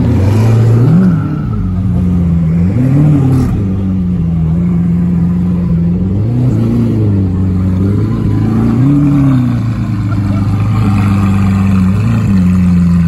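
Lamborghini Aventador S's V12 engine idling with a steady low note, blipped up about six times in short revs that rise and drop straight back to idle.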